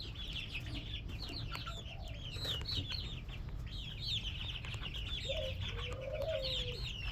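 A group of young red junglefowl hybrid chicks peeping continuously: many rapid, high, downward-sliding chirps overlapping. A lower, drawn-out call sounds about five to six and a half seconds in.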